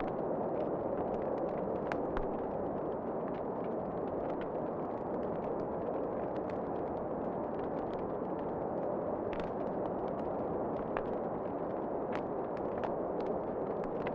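Wood fire crackling in a fireplace, with scattered sharp pops and ticks over a steady low rushing of wind.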